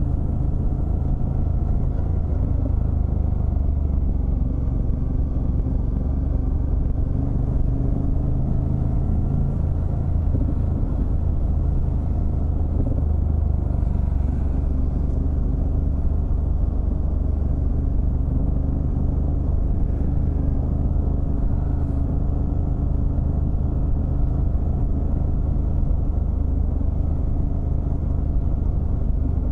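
Ducati Multistrada DVT's twin-cylinder engine running steadily under way, heard from on the bike, its pitch drifting gently up and down with the throttle.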